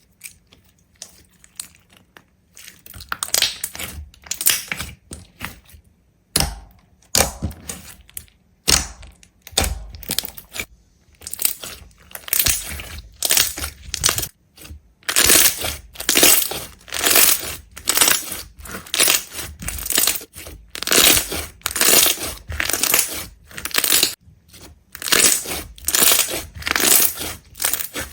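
Repeated crisp crunching of something brittle being crushed or broken, starting a few seconds in; from about halfway it settles into a steady rhythm of roughly two crunches a second and gets louder.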